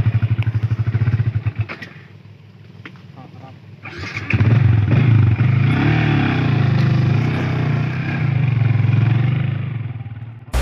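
A small engine running close by with a rapid, even throb. It drops away about two seconds in, comes back loud about four seconds in, and fades near the end.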